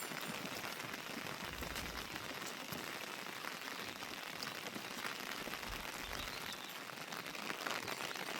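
Light rain falling steadily: an even hiss dense with small drop ticks.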